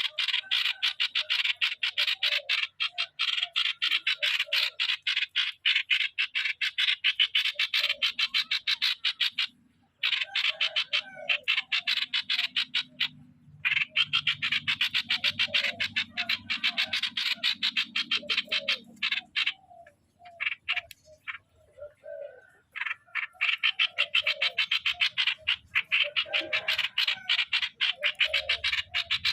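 Streak-eared bulbul calling in long runs of fast, harsh rattling notes, about ten a second, broken by short pauses.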